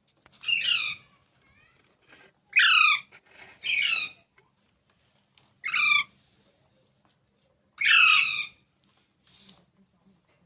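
A parrot calling: five short, loud squawks a second or two apart, each falling in pitch.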